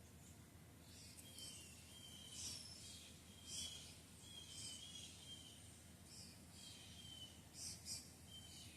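Faint birdsong: a small bird's short, slightly falling chirps repeated about once a second, with a few faint ticks.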